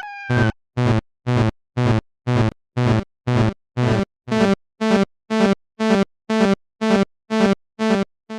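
Synthesized railroad crossing alarm: a distorted, multi-tone ding repeating about twice a second, each stroke cut off cleanly into silence.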